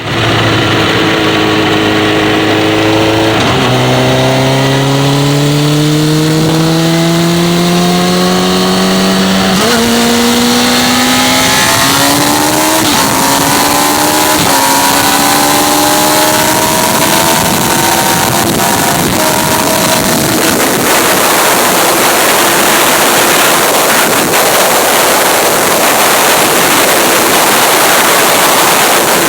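Motorcycle engine accelerating hard up through the gears, its pitch climbing and dropping at each of several upshifts. Then, at very high speed, wind rushing over the microphone drowns out the engine.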